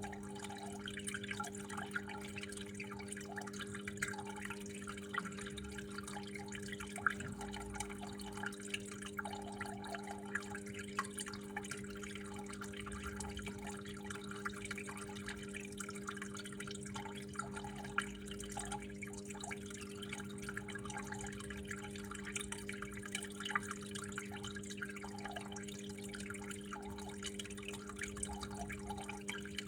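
Water trickling and splashing, with many small drips, over a steady low hum.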